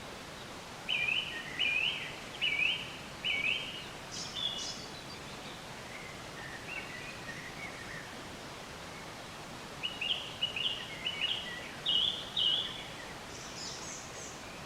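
Songbirds singing: a run of four short, evenly spaced chirping notes, some higher and lower warbled notes, then a second quicker series of chirps near the end, over a steady background hiss.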